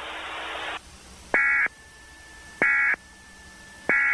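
Emergency Alert System end-of-message data tones: three identical short electronic bursts about 1.3 seconds apart, marking the end of the tornado warning broadcast. They follow a stretch of radio hiss that cuts off just under a second in.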